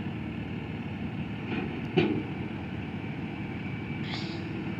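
Claw truck's engine running steadily as it works, with a single knock about two seconds in.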